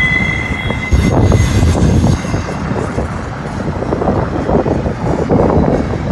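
Freight train cars rolling slowly past, with a high wheel squeal that fades out in the first second, followed by steady rumbling and rattling. Strong wind buffets the microphone, loudest about a second in.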